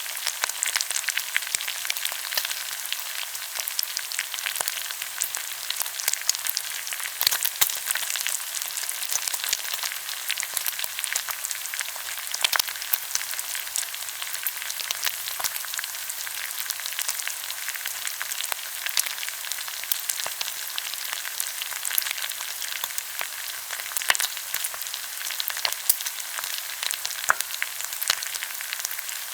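Pork belly sizzling on a hot grill, a steady hiss of fat frying with constant sharp crackling pops.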